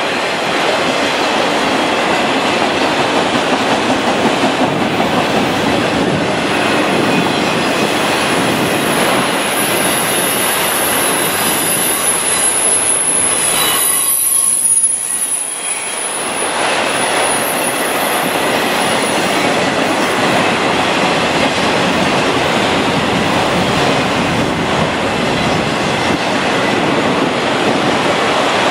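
Train rolling past on the rails: a steady rumble of wheels and cars, with a thin, high wheel squeal from about nine to twenty seconds in. The noise drops briefly near the middle.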